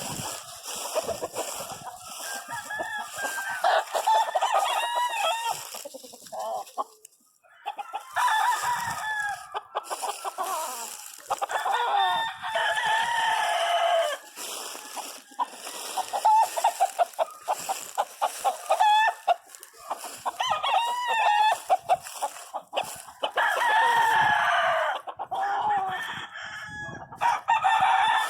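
Gamefowl roosters crowing again and again, the calls overlapping and following one another, with chickens clucking between the crows.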